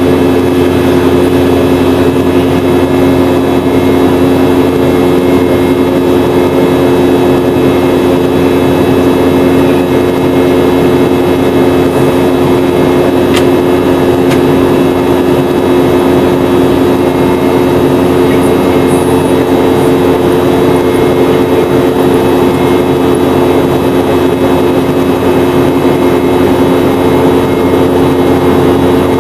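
Boeing 717-200's rear-mounted Rolls-Royce BR715 turbofan engines running at a steady power, heard inside the cabin as a loud, even rush with a steady low multi-note hum.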